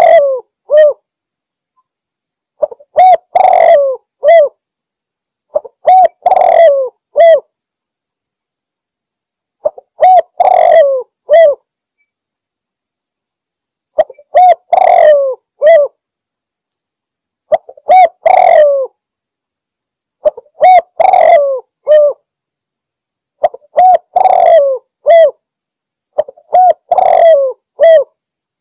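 Spotted dove cooing its challenge call, the kind used as a lure recording for rival doves. A phrase of three or four rolling coos repeats about every three to four seconds, about nine times.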